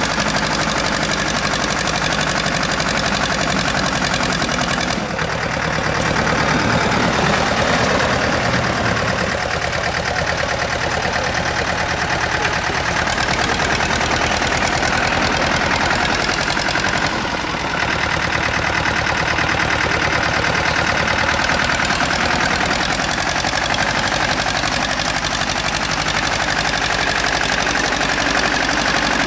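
Tractor engine running steadily, its note shifting a couple of times.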